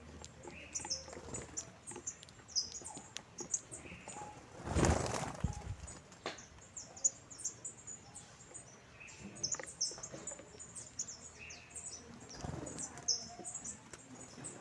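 A flock of saffron finches calling, many short, high chirps overlapping all through. About five seconds in, a loud whoosh lasting about a second covers them.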